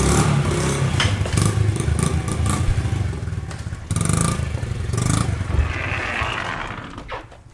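Honda XR50 pit bike's small single-cylinder four-stroke engine running as it is ridden indoors, with scattered clattering knocks, dying away near the end.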